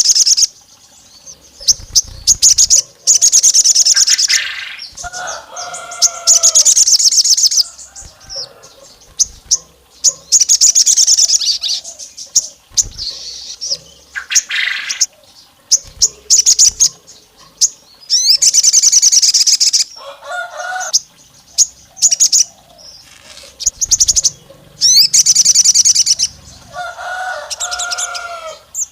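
Sogon songbird singing in full song: repeated bouts of fast, high, trilling chirps about a second or two long, some mixed with lower two-note whistles, with short pauses between bouts.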